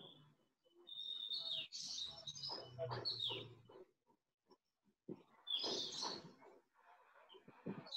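Birds chirping in short bursts, about a second in and again near six seconds, over outdoor background noise.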